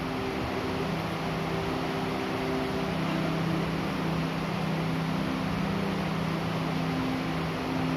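Steady rushing noise of rain falling, with a low, steady hum running under it.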